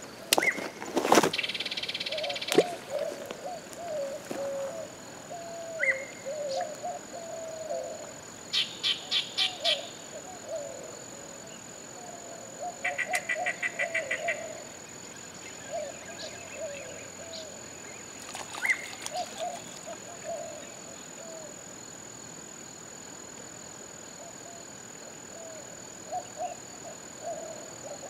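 Birds calling outdoors, with a few short, fast-pulsed trills and a wavering lower call that keeps coming and going, over a thin steady high-pitched hum. There is one sharp knock about a second in.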